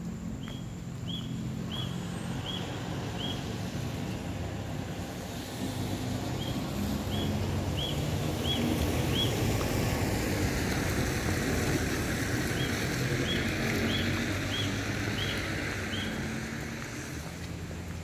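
Steady rushing noise that swells through the middle, with a bird repeating a short high note in runs of five or six, about one a second.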